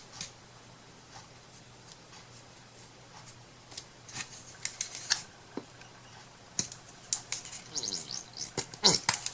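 Scattered light clicks, taps and scrapes of small craft tools and materials being handled on a worktable, sparse at first and busier in the second half, over a faint steady hum.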